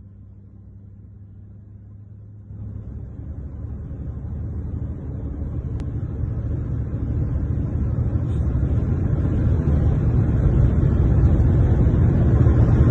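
Low rumbling vehicle noise that steps up about two and a half seconds in and then grows steadily louder.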